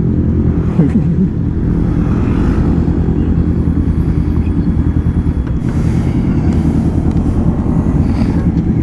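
Honda CBR500R's parallel-twin engine dropping to idle as the bike rolls to a stop, then idling with an even low pulse; a brief change in pitch comes about a second in.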